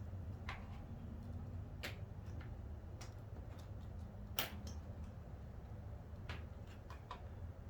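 Scattered sharp clicks and light knocks of plastic seat trim and its clips being handled and worked loose, one louder click about halfway through, over a steady low hum.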